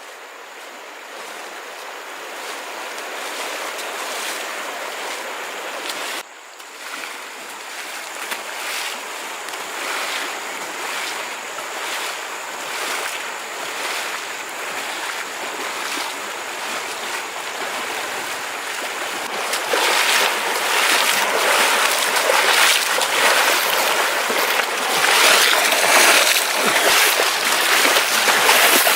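Flowing water rushing steadily, growing louder about two-thirds of the way through.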